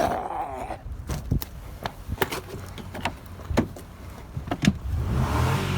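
Irregular sharp clicks and knocks, like a pickup truck's door and cab being handled, then a low steady rumble that builds about five seconds in.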